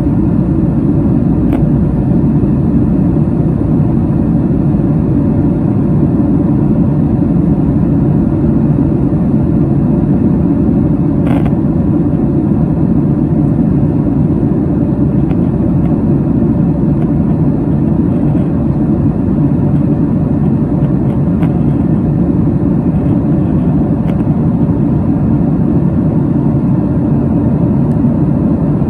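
Boeing 767 cabin noise: the steady, even roar of the jet engines and airflow heard from inside the passenger cabin, deep and unchanging.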